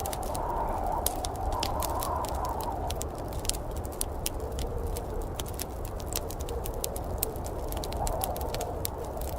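Wood fire crackling in a fireplace, with frequent sharp irregular pops and snaps over a steady low rumble and hiss.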